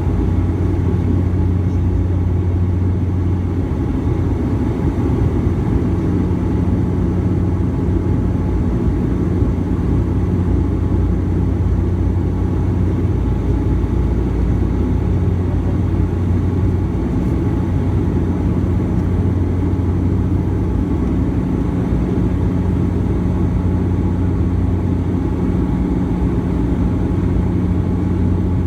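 Airliner cabin noise: the engines drone steadily with a low hum and several fixed tones over a rumbling rush of air, unchanging throughout.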